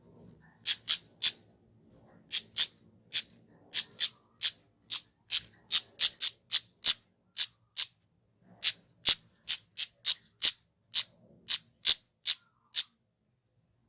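Kemade flowerpecker giving a rapid series of short, sharp, high-pitched chip calls, two to three a second, with a brief pause just before the middle; the lure call used to get caged kemade and cit keres calling.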